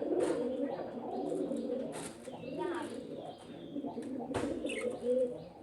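Birds calling: steady low warbling, cooing-like calls, with a few brief higher chirps about halfway through and a few sharp clicks.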